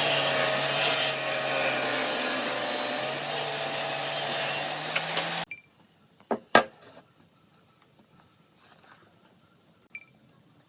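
A power tool working wood, running steadily with a low hum under dense noise, then cutting off abruptly about halfway through. Two sharp knocks follow close together, then it is near quiet.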